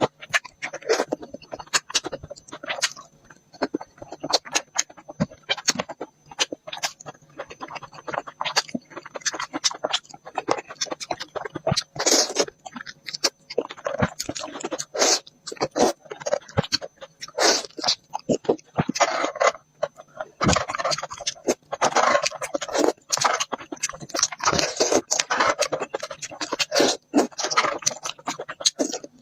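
Close-miked eating: fast, continuous chewing and mouth smacking, with wet clicks and crunchy bites, getting busier and fuller about two-thirds of the way in.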